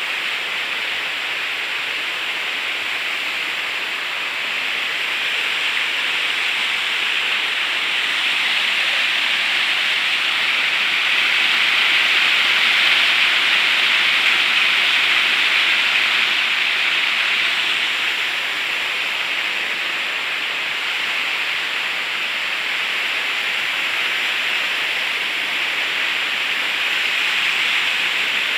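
Waterfall: a steady rush of falling water that swells a little midway and then eases back.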